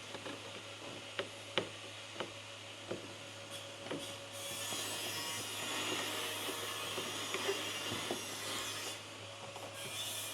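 Engine-bay intake parts being handled and fitted back into place: scattered light clicks and knocks, with a longer stretch of rubbing and scraping in the middle.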